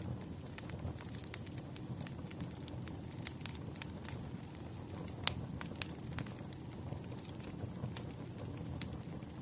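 Burning firewood crackling: irregular sharp pops and ticks over a steady low rumble, with the sharpest pop about halfway through.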